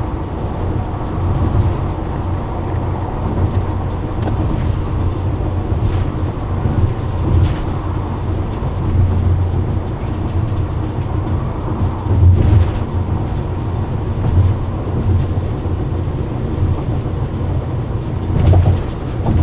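Steady low rumble of tyres and engine inside a car cruising at freeway speed, with a few short knocks from the road and louder swells about twelve and eighteen seconds in.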